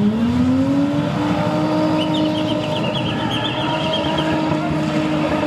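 A BMW E30's engine being spun, its revs climbing in the first second and then held steady high while the rear wheels spin. A short high warbling squeal comes about two seconds in.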